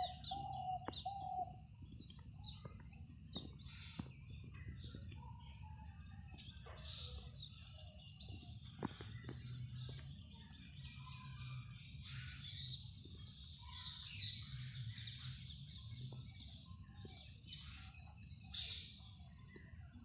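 Small birds chirping and calling in short, scattered notes over a steady high-pitched tone and low background noise.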